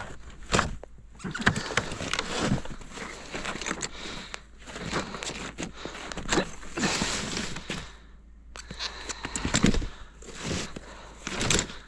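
Snow crunching and scraping in irregular bursts as a person and a sled push through deep, loose snow, with a few sharper knocks, the loudest about nine and a half seconds in.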